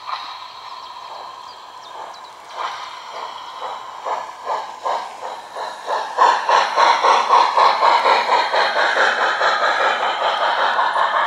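Garden-scale model train running on the layout, its rhythmic beat getting faster and louder as it approaches, heard with almost no bass.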